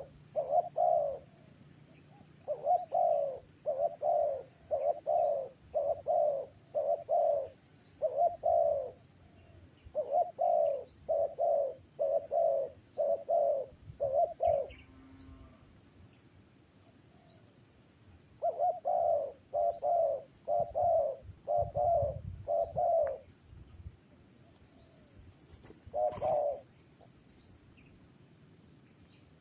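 Spotted dove cooing: runs of repeated deep coo notes lasting several seconds, broken by pauses, with a last short call near the end. Faint high chirps of small birds are heard in between.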